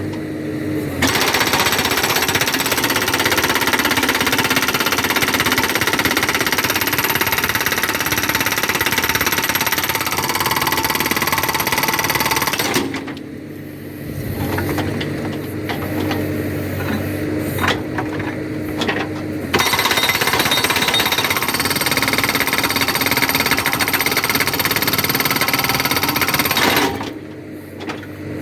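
Backhoe-mounted hydraulic rock breaker hammering rock in long runs of rapid blows over the backhoe's running engine. It pauses briefly around the middle, strikes in a few short bursts, then hammers steadily again before stopping near the end, leaving the engine running.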